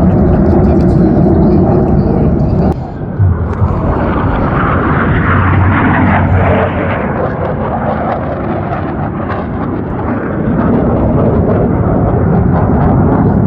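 Loud jet noise from Blue Angels F/A-18 Super Hornets flying low overhead, cut off abruptly about three seconds in. A jet pass then swells and fades through the middle.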